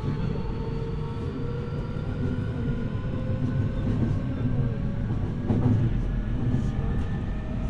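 Keio 1000 series third-batch electric train running between stations, heard from inside the car: a steady low rumble of wheels on rail under several slowly gliding whining tones from the traction motors and inverter. A single louder knock from the track comes about five and a half seconds in.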